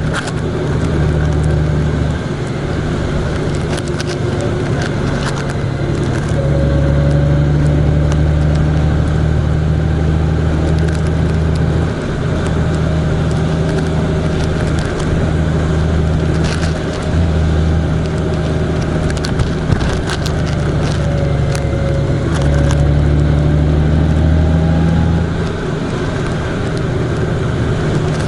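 A vehicle engine running under way with road noise, its low drone swelling and easing as the engine works harder and eases off, with scattered light ticks.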